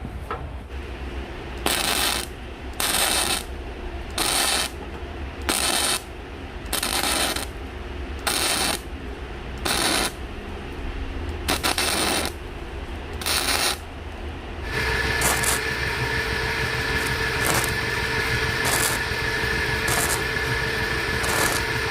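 Steel being tack-welded: about a dozen short bursts, each about half a second long and roughly a second apart. From about fifteen seconds in, a steady sound with a constant whine takes over and runs on.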